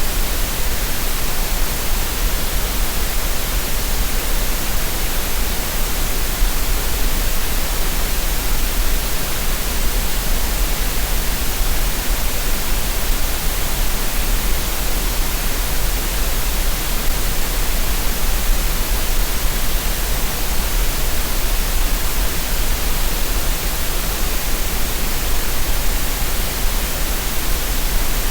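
Green noise: a steady, even, unchanging hiss of synthetic noise, made for relaxation and masking tinnitus.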